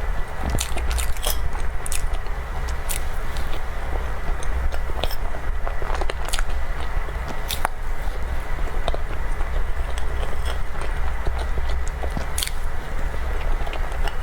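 Close-miked chewing of cake with irregular wet, sticky mouth clicks, over a steady low hum.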